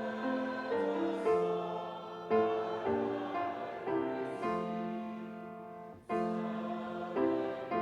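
Piano playing a slow hymn, with voices singing along.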